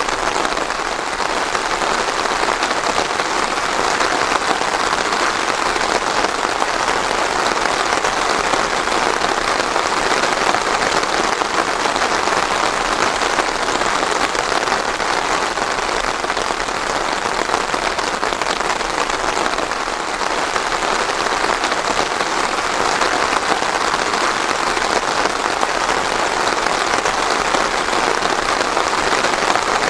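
Steady rain falling and pattering on a surface, with no thunder.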